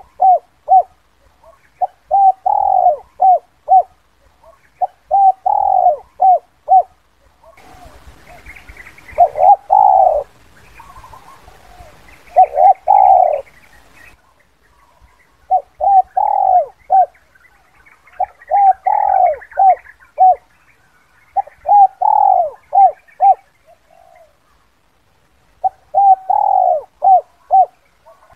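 Spotted dove (Spilopelia chinensis) cooing its 'kuk 2' call, the type used as a lure to draw wild doves: phrases of several short coos, repeated about every three seconds. Between about 8 and 14 seconds in, a faint hiss comes up behind a few longer, louder coos.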